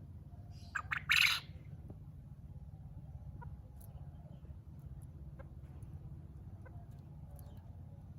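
A penned game bird gives one short, loud call in two parts about a second in, over a steady low hum.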